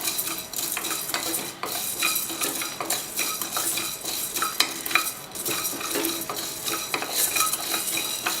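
Coriander seeds being roasted in a pan while a spoon stirs them: continuous scraping of the spoon and rattling of the seeds against the pan, with a couple of brief pauses between strokes.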